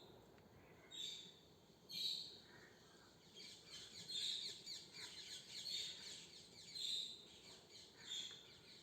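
Faint chirping of birds: many quick, high, downward-sweeping chirps coming in small clusters about once a second.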